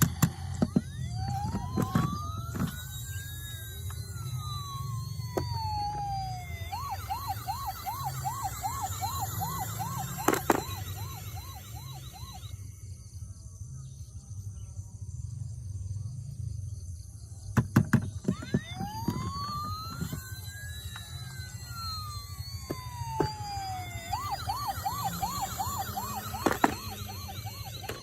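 Toy emergency vehicle's electronic siren: a slow wail that rises and falls in pitch, then a fast warble of about four cycles a second. The cycle plays twice, with a few sharp clicks in between.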